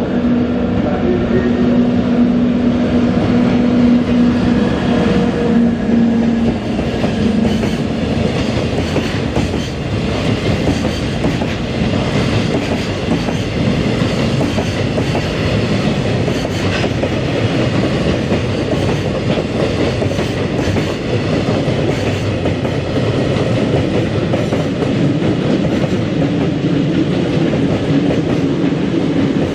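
Freight train passing close by, its wagons rolling with the clickety-clack of wheels over rail joints. A steady hum is heard in the first few seconds.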